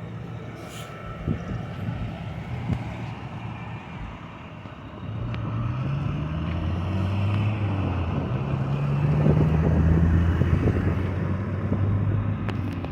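Motor vehicle engines running, one rising in pitch twice as it accelerates, getting louder about five seconds in.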